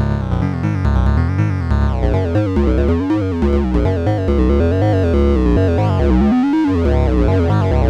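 Analog synthesizer music from a Behringer Neutron and a Donner B1 bass synth: a steady pulsing bass line under a pitched synth voice whose tone wavers up and down over and over.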